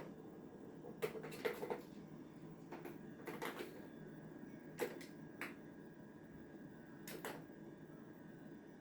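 Irregular light clicks and short scuffling rustles, about half a dozen, from a Devon Rex kitten playing, over a steady faint room hum.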